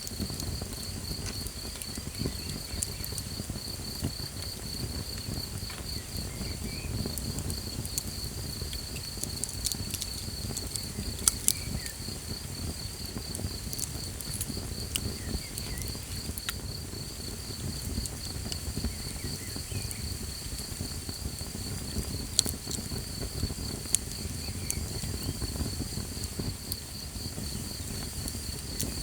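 Campfire crackling with a few sharp pops, two close together near the middle, over a low steady rumble, while crickets trill in a fast, even pulse throughout.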